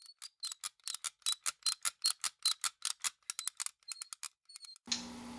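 Rapid mechanical ticking, about five sharp ticks a second over dead silence, like a clock or ratchet; it stops near the end, where a steady low hum comes in.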